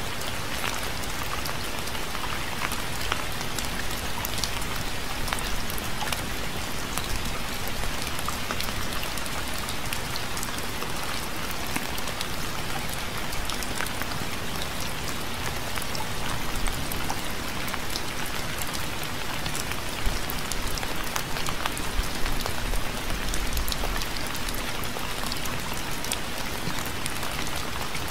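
Steady rain falling on a surface, a dense even hiss thick with individual drops ticking, with a few louder drop hits after the middle.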